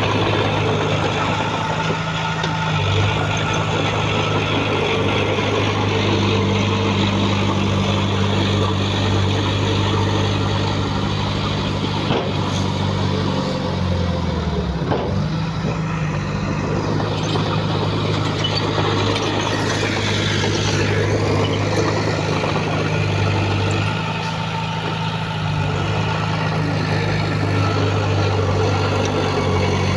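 Heavy diesel engine of earthmoving machinery running steadily, with its pitch dipping briefly and recovering about halfway through.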